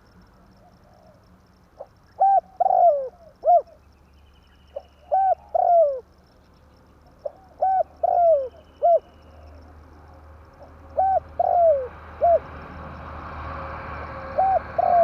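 Spotted dove cooing: phrases of three to five short coos, repeated about every three seconds. A rushing background noise swells near the end.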